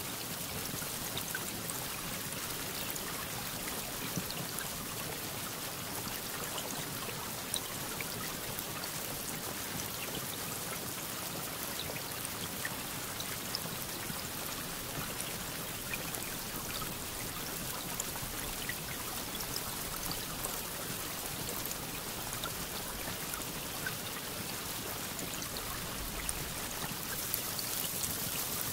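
Steady rain falling, an even hiss with scattered individual drop ticks, growing slightly louder near the end.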